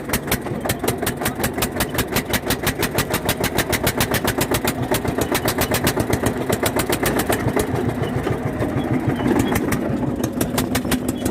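Eicher 241 tractor's single-cylinder diesel engine running steadily, an even knock of firing strokes about seven a second.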